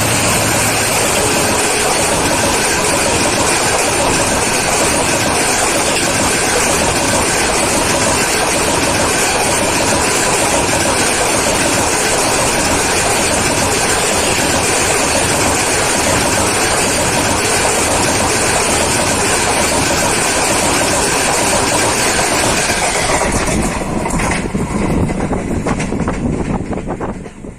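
A train running at speed close by: a loud, steady rush of wheel and wind noise. It changes near the end and dies away over the last second or so.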